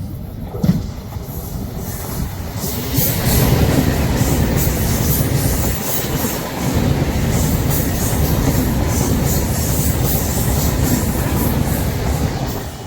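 Train passing close by on a sharp curve, its wheels clattering over the rail joints in a loud, continuous rumble that builds a couple of seconds in and fades near the end.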